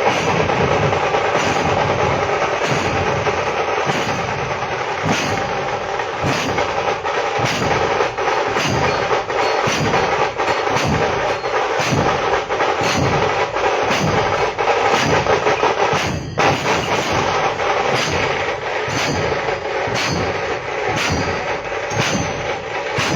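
Loud drumming with a strong, even beat about once a second over a dense, continuous clatter of percussion.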